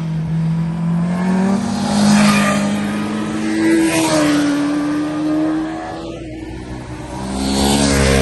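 Sport motorcycles accelerating hard past, their engines revving high. The engine note climbs to its loudest about two seconds in, and another bike passes near the end.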